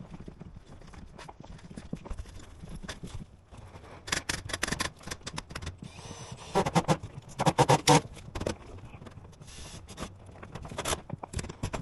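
Rapid, sharp knocks and taps in irregular runs, loudest in a dense cluster about seven to eight seconds in.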